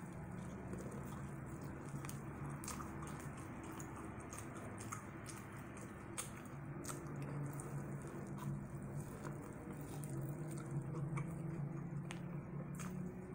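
Close-up chewing and crunching of crispy breaded fried corn on the cob, with scattered sharp crackles from the crust over a low hum.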